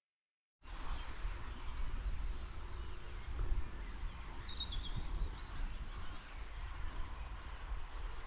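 Outdoor ambience cutting in about half a second in: birds chirping a few times over a low, steady rumble.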